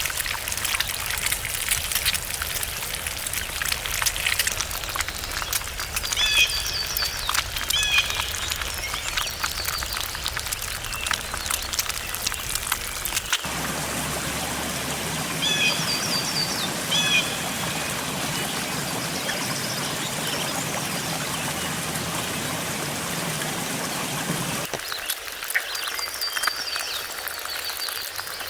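Outdoor ambience: a steady hiss with fine crackling throughout. Short runs of repeated chirping calls come three times, with a sudden change in the background hiss twice.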